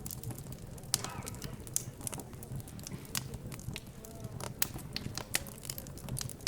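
Wood fire crackling in a fireplace: irregular sharp snaps and pops, several a second, over a low steady rumble. A faint murmur of background chatter runs underneath.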